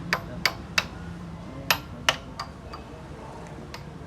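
Irregular sharp clicks and knocks, about eight in four seconds, over a low steady hum that stops about a second and a half in.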